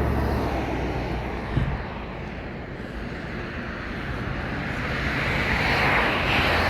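A vehicle's low engine hum and rushing noise, swelling to its loudest about six seconds in.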